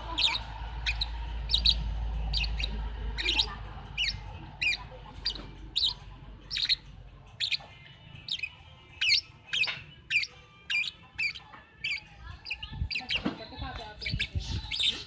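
Small bird chirping over and over in short, sharp, high chirps, about two a second. A low rumble lies under the first half and fades out about halfway through.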